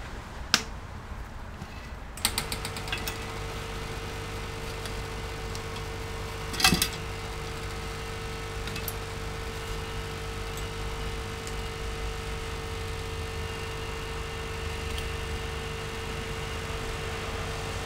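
A few clicks, then a small electric motor switched on about two seconds in and running with a steady hum, with one sharp knock partway through.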